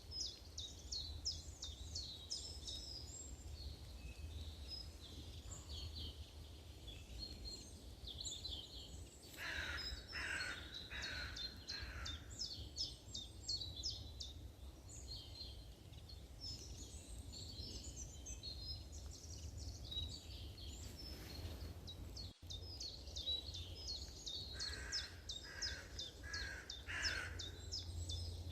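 Outdoor birdsong: small birds chirping and trilling rapidly and almost without a break. A larger bird gives a run of four calls about ten seconds in and another run of four near the end, over a steady low rumble.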